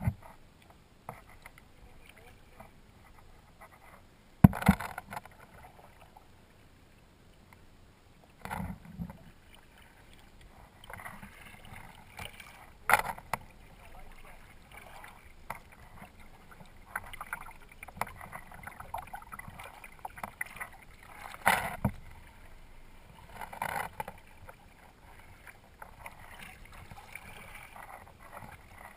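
Kayak paddling: the paddle blades swish through the water every second or two, with a few sharp knocks scattered through.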